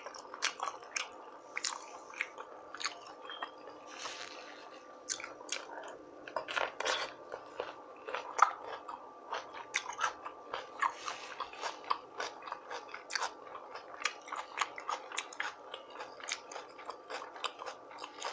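Close-miked eating: irregular wet chewing, lip smacks and crunching bites of rotisserie chicken and cucumbers.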